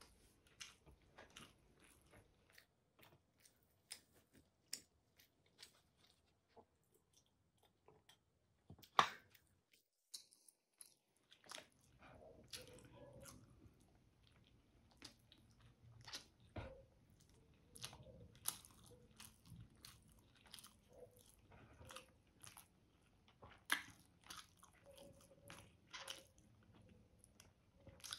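Quiet, close-up chewing and mouth sounds of a person eating chicken and rice by hand: a steady run of short, soft wet clicks and smacks. There is a brief drop to near silence about ten seconds in.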